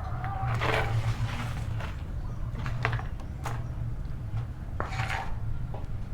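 Scattered knocks, clicks and short scraping swishes of a freshly washed cat cage being handled and moved, over a steady low hum.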